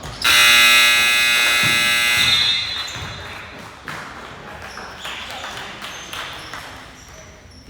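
Basketball scoreboard buzzer sounding one long blast of about two seconds, then fading in the gym's echo.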